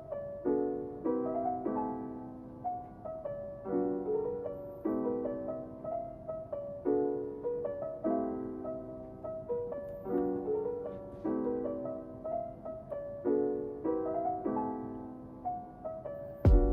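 Soft background piano music, chords struck at an even, slow pace and left to ring.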